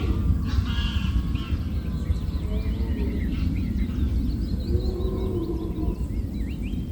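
Outdoor wetland ambience: many birds chirping and calling over a steady low rumble.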